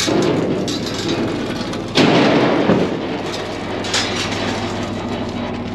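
Scrap metal being dropped and thrown, with a loud crash about two seconds in, a smaller crash at the start and a sharp knock near four seconds. A vehicle engine idles steadily underneath.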